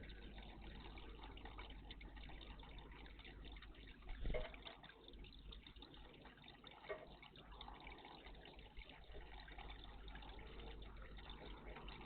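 Faint water trickling and splashing in a garden bird bath, with one short louder sound about four seconds in.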